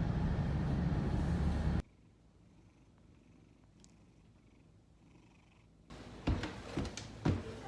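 Steady car-cabin road noise that cuts off suddenly about two seconds in, giving way to near silence; near the end a rhythmic series of soft pulses starts.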